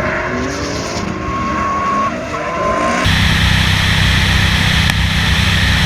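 Racing car sound: an engine running with tyres squealing in a held, high tone. About three seconds in it cuts suddenly to a loud, steady engine rumble.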